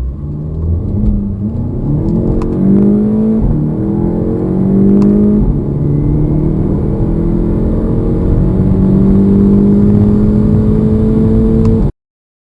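Volkswagen Golf GTI's 2.0-litre turbocharged four-cylinder engine at full-throttle acceleration, the pitch climbing with the revs and dropping back at each upshift, about three times in the first five seconds, then rising slowly in a higher gear. Cuts off abruptly near the end.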